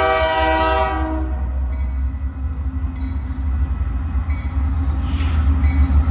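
Union Pacific diesel locomotive's horn sounding a chord of several steady tones, cutting off about a second in. Then the low, steady rumble of the approaching locomotives, growing louder.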